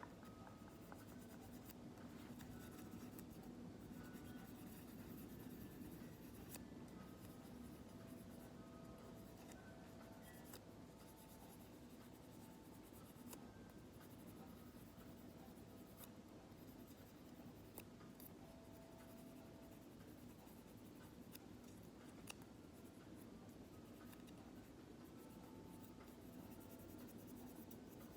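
Faint, soft rubbing and scratching of hands, as in a slow hand massage with lotion. Faint wind chimes ring now and then at several different pitches.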